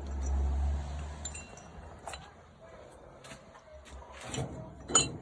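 Small metal carburettor parts clinking and tapping against each other and a hard surface, with a sharp, briefly ringing clink near the end. A low hum sounds during the first second.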